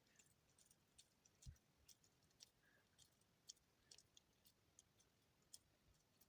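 Faint, scattered crackles and clicks of dry soap shavings being handled and pressed together by hand, irregular, a dozen or so over a few seconds.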